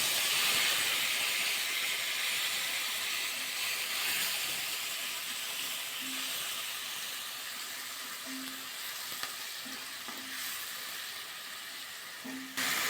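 Sliced onions sizzling in hot mustard oil in a kadai after being tipped in. The sizzle is loud at first and slowly dies down, picking up a little again near the end.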